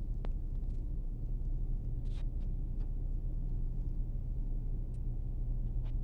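Car engine running at low speed with a steady low hum, and a few faint clicks.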